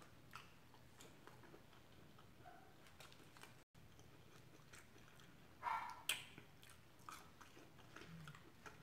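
Quiet chewing and biting of fried food, with scattered small clicks and a louder crunchy bite a little past halfway.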